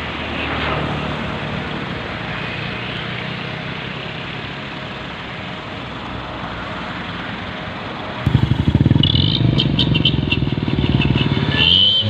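Heavy diesel dump truck engine running steadily, then revving up sharply about eight seconds in into a louder, fast-pulsing run, with a high whine joining soon after.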